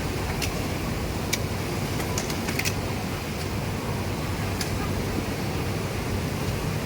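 Steady mechanical hum of industrial sewing machines running on a garment factory floor, with a few sharp clicks scattered through it.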